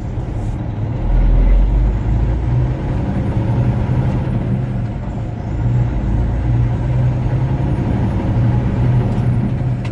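Truck engine running steadily under way, a constant low drone with road noise, and a heavier low rumble about a second in.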